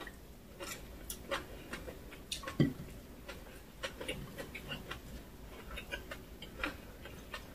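Close-miked chewing and lip smacks of a person eating, heard as irregular small wet mouth clicks, with a louder one about two and a half seconds in.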